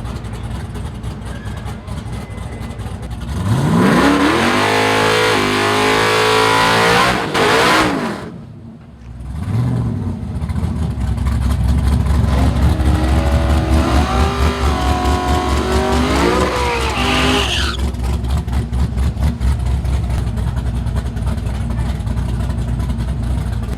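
Car engine accelerating hard, its pitch climbing steeply for about four seconds before dropping away suddenly. A deep, pulsing engine rumble follows, with a second run of rising revs broken by gear changes that stops abruptly about two-thirds of the way in.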